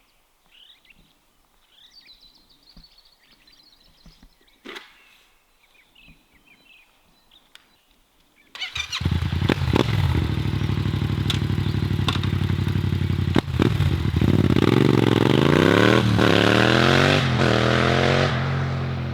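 Yamaha MT-07 parallel-twin engine through an Akrapovic titanium exhaust comes in suddenly a little under halfway, idles, then is revved about three times near the end. Faint birdsong comes before it.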